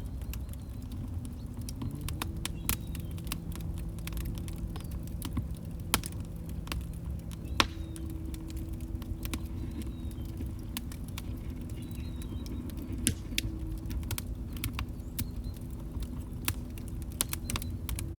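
Wood fire crackling, with irregular sharp snaps and pops, a couple of them louder about a third of the way in, over a steady low rumble of burning and a faint steady hum.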